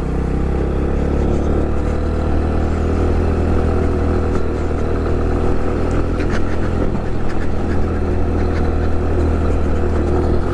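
Honda Pop 110i's small single-cylinder four-stroke engine running steadily while riding, with a few light clicks about six seconds in.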